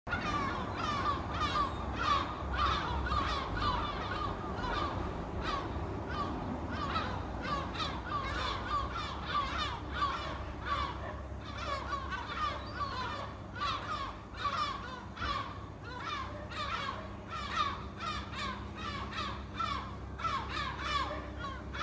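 A flock of seagulls calling: many short calls overlapping in a dense, unbroken chorus.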